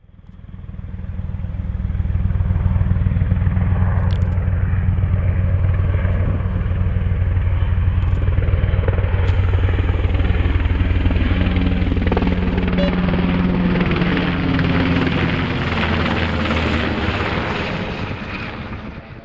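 Military helicopter flying past, its rotor beating in a rapid, steady pulse over a low engine drone; it builds over the first couple of seconds and fades near the end.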